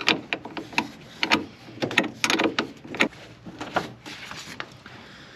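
A run of irregular sharp knocks and clicks, some loud, as things are handled and moved.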